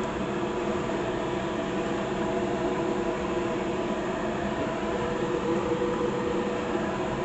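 Steady machine hum with an even hiss behind it, unchanging throughout.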